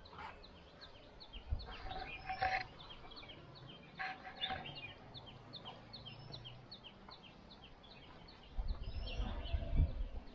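Outdoor birdsong: one bird repeats a short high chirp about three times a second, and a few louder calls come about two and four seconds in. A low rumble rises near the end.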